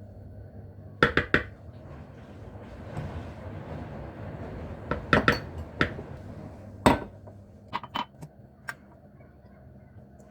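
Kitchenware being handled: dishes and utensils clinking and knocking in small clusters, over a steady low hum.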